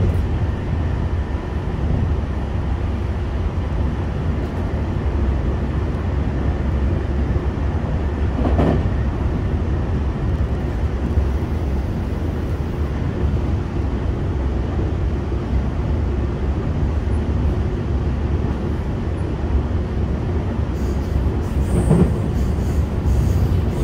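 Interior running sound of a JR West 225 series electric train, heard inside a motor car: a steady rumble of wheels on rail and running gear. Two brief knocks stand out, about 9 seconds in and near the end.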